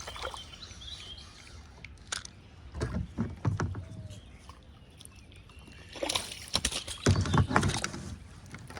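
Water splashing and knocking at a kayak in two bouts: a short one about three seconds in and a longer, louder one from about six to eight seconds in.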